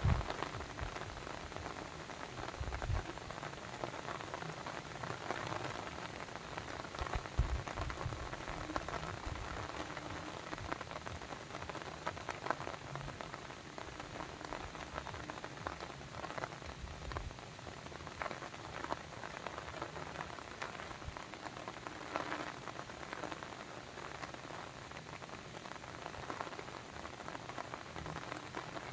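Steady rush of water, rain or a babbling brook, with many small drip-like ticks throughout. A few low thumps sound in the first few seconds and again around the seventh second.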